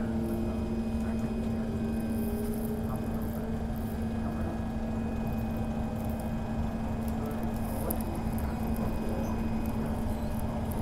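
Train running steadily, heard from inside the carriage: an even rumble with a constant low hum, and a few brief hisses.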